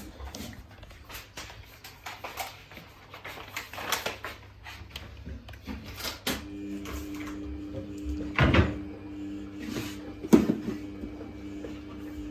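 Samsung WF1700WRW front-loading washing machine on its daily wash programme: scattered clicks and knocks, then about six seconds in a steady motor hum starts and holds, with two louder thumps after it.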